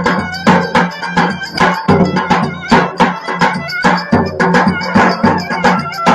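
Traditional folk dance music played live: a steady, even percussion beat with sharp strikes several times a second, under a melody line and a sustained bass.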